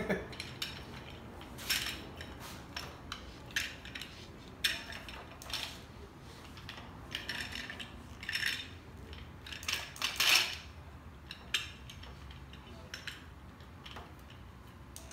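Scattered metallic clicks and clinks of tools and hole-saw parts being handled, the loudest about two-thirds of the way through.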